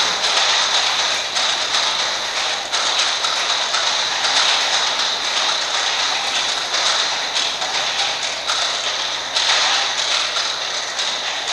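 Many amplified clock mechanisms ticking at once, their ticks merging into a dense, continuous clatter with no single steady beat.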